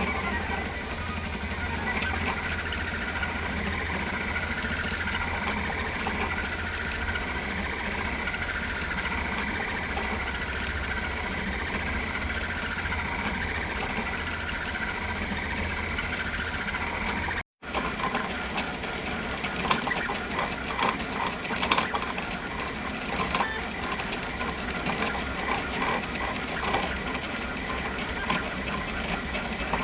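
3D printer printing, its stepper motors whining in shifting tones as the print head moves. The sound breaks off for a moment just past halfway, then resumes with more clicking and rattling.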